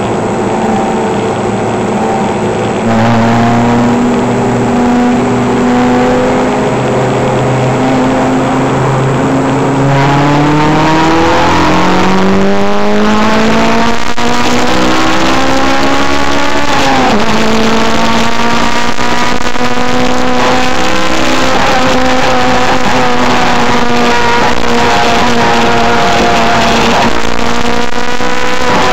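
A car engine under hard acceleration: after a steady stretch the revs climb for several seconds, drop sharply at a gear change about halfway through, then hold high with small dips.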